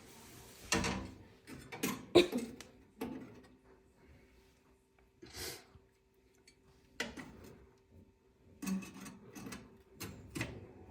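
Parts of a gas range being handled and fitted back into place during reassembly: scattered clicks and knocks, the sharpest about two seconds in, with a brief rustle in the middle.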